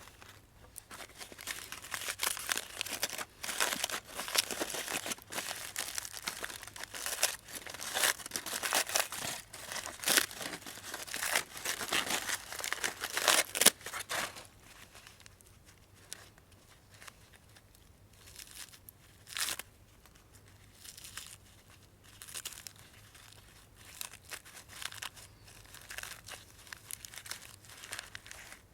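Crinkling, crackling and tearing of aluminium foil being unwrapped from a roasted sweet potato: dense for about the first half, then sparse, scattered crackles.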